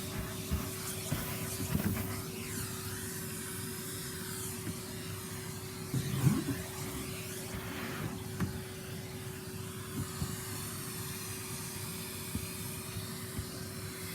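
Vacuum cleaner running steadily with a constant hum as it cleans a car's interior. A few knocks come from the nozzle bumping against surfaces, the loudest about six seconds in.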